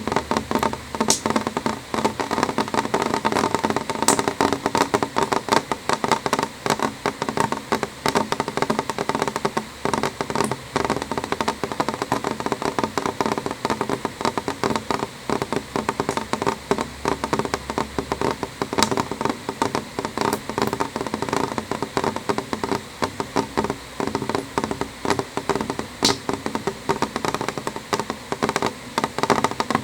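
Rain drops tapping on window glass in a dense, steady patter, with a few sharper ticks now and then.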